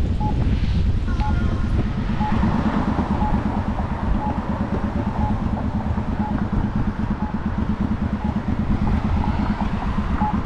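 Road traffic running past, with a short electronic beep repeating about once a second.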